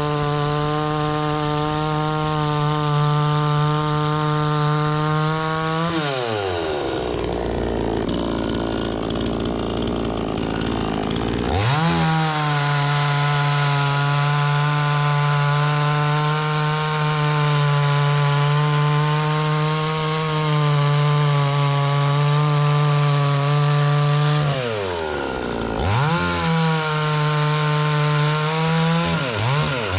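Two-stroke chainsaw held at high revs while cutting wood, dropping back to idle about six seconds in and revving up again some six seconds later. It eases off again near the end, with two short throttle blips.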